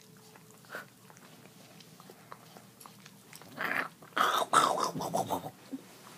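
A dachshund licking and slobbering right at the microphone: wet, smacking mouth noises that start loud and ragged about halfway through and last a couple of seconds.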